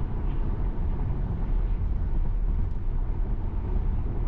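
Steady low rumble of tyres on a wet highway with rain on the car, heard inside a Tesla Model Y's cabin at highway speed.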